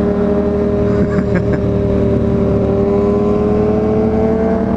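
Motorcycle engine running steadily while riding, heard from the bike itself, its pitch creeping slightly higher over the few seconds.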